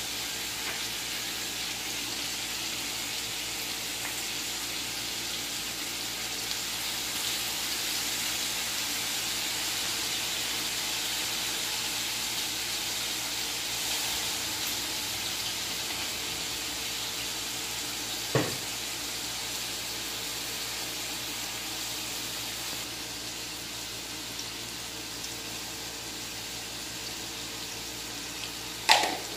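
Chicken drumsticks frying in a large wok: a steady sizzling hiss. A single knock about two-thirds of the way through, and a sharp clink near the end.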